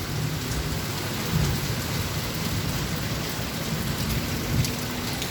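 Heavy rain pouring down steadily, a dense even hiss with a low rumble underneath.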